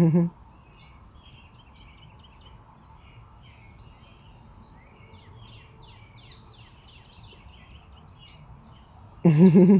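Birds chirping in the background, a steady run of short, quick, high chirps that gets busiest around the middle. Near the end a person's voice cuts in, much louder than the birds.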